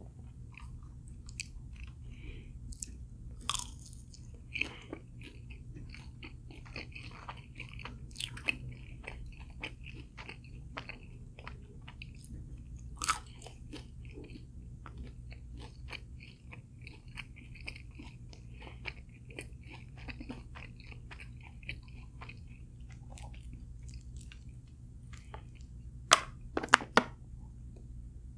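A person chewing and crunching crisp fried food, with many small crunches throughout and a few louder, sharp crunches near the end.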